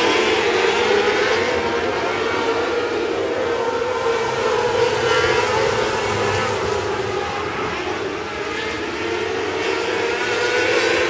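Winged race car engine running at a fairly steady, high pitch, holding its revs rather than revving up and down.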